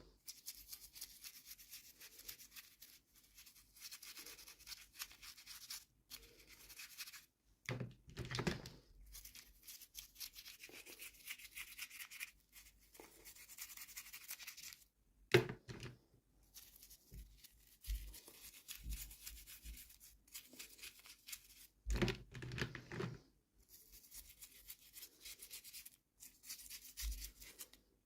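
Close-up handling of toy packaging: rustling and crinkling in stretches, broken by pauses, with a few sharp knocks and thunks, the loudest about halfway through.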